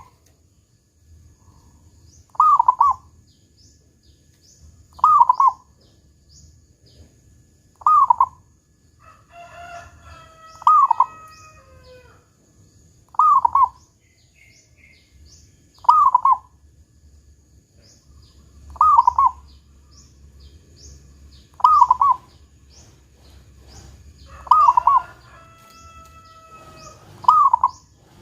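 Zebra dove (perkutut) singing its cooing song over and over, one short phrase about every two and a half to three seconds, about ten times. A rooster crows in the background twice, around ten seconds in and near the end.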